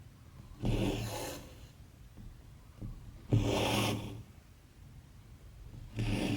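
Embroidery thread being drawn through cross-stitch fabric: three short rasping pulls at an even pace, about one every two and a half seconds.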